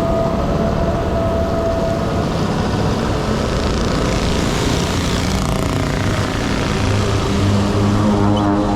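Honda Dio 50cc two-stroke scooter engine buzzing under way, with rushing wind and road noise. The engine note settles to a steady pitch in the second half.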